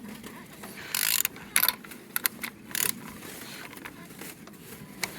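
A used VW 1.6 TDI (CAYC) diesel engine being turned over by hand: short bursts of clicking and mechanical rattling, mostly in the first half. It turns freely with compression on all cylinders.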